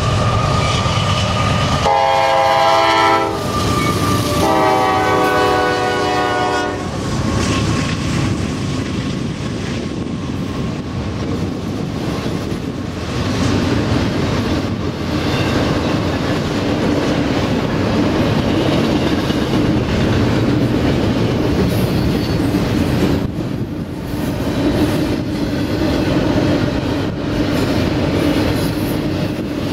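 Freight locomotive air horn sounding two chorded blasts, a short one and then a longer one, as a CSX double-stack container train approaches. Then the steady rumble and clickety-clack of the loaded intermodal well cars rolling past.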